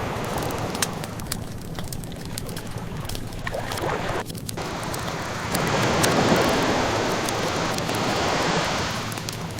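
Ocean waves washing in, one surge swelling up a little past halfway and easing off near the end, mixed with the scattered small crackles of a burning wood fire.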